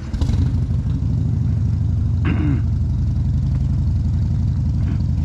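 Motorcycle engine idling close by, a steady low running note with a fast pulsing beat that starts suddenly at the outset. Two short separate sounds break over it, about two seconds in and near the end.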